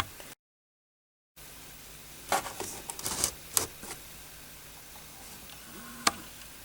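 Light clicks and knocks of small tools and parts being handled on a workbench: a cluster of them a couple of seconds in and one sharp click near the end, after a brief cut to total silence.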